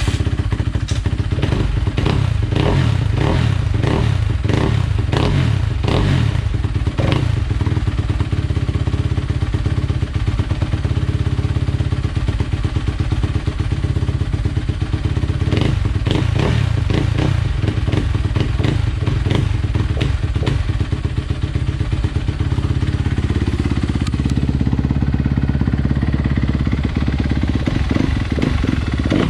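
Honda CRF250R single-cylinder four-stroke dirt bike engine running through a freshly fitted 2016 exhaust system, idling with repeated quick throttle blips that send the revs up and down, most of them in the first several seconds and again about halfway through.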